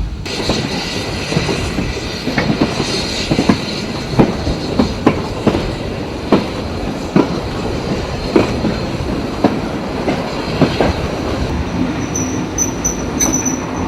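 Small steam train rolling slowly along the track, its wheels knocking over the rail joints about once a second at irregular intervals, with short high wheel squeals near the end.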